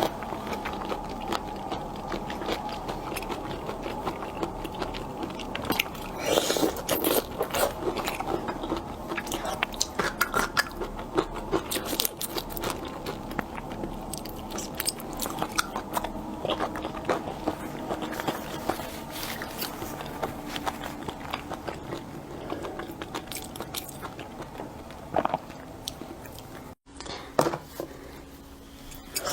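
A person biting and chewing shrimp close to the microphone, with irregular crunches and clicks; the sound cuts out for a moment near the end.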